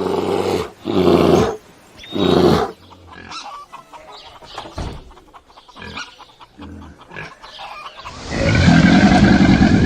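Animal calls: three loud, deep calls about a second apart, then fainter, scattered calls. About eight seconds in, a louder, noisier sound begins.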